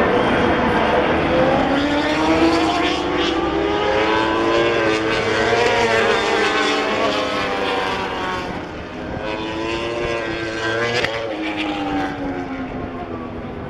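Racing motorcycles at high revs passing the grandstand, their engine notes rising and then falling as they go by, with another pass about two-thirds in.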